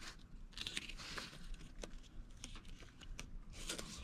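Faint crinkling and tearing of tape being handled and wrapped around drain-line insulation, with scattered small clicks.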